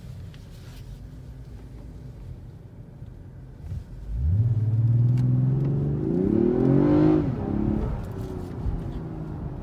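2019 Toyota Avalon's 3.5-litre V6, fitted with a K&N Typhoon intake, heard from inside the cabin. After a low rumble, about four seconds in it accelerates hard and the engine note rises steadily for about three seconds. The note then drops sharply and the engine settles back to a quieter run.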